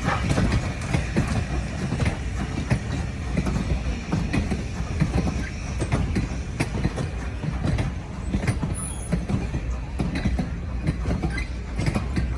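Passenger train cars rolling past, a steady low rumble with wheels clicking irregularly over the rail joints. A brief high squeal about nine seconds in.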